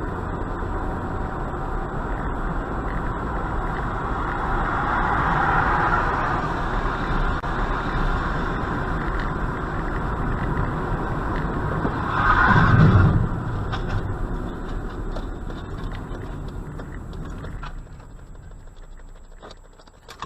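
A car driving, with steady engine and tyre noise on the road. It swells louder for about a second roughly twelve seconds in, then fades off near the end.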